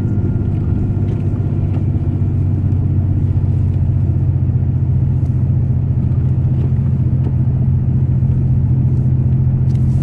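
Pickup truck running while being driven, a steady low engine and road drone.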